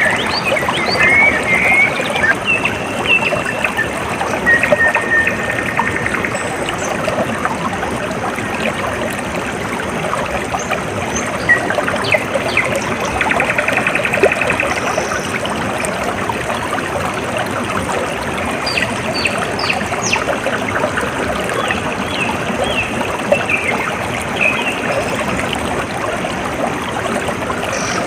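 A small stream trickling and gurgling steadily, with birds chirping and giving short trills now and then.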